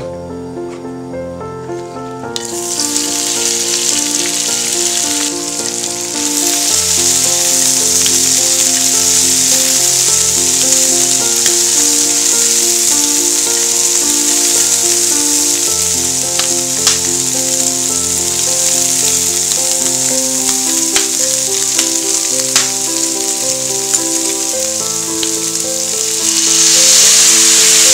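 Shrimp shells frying in hot oil in a pan. The sizzling starts about two seconds in, with a few sharp clicks from the stirring utensil. Near the end water is poured in to make shrimp stock, and the sizzling grows louder. Background music plays throughout.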